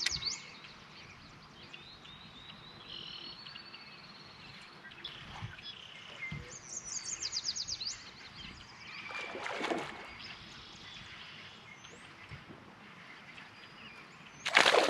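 Songbirds singing: several high trilled phrases, one a quick run of repeated notes about halfway through, over a faint outdoor hiss. A brief swell of noise comes about two-thirds of the way through.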